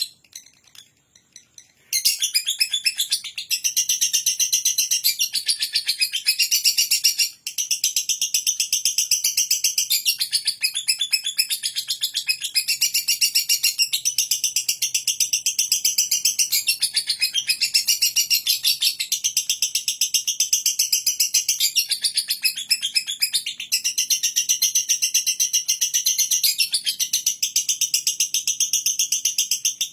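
Lovebird singing a long 'ngekek': fast, unbroken chattering of high chirps. It starts about two seconds in, after a short silence, and breaks off only once, briefly, about a quarter of the way through.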